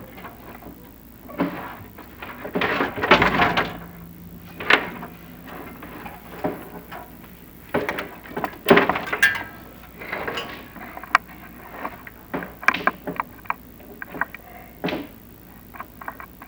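A chimney inspection camera and its push line scraping and knocking against the walls of the flue as it is lowered: irregular knocks, clicks and scrapes, some loud, with a few louder scrapes a few seconds in and again near the middle.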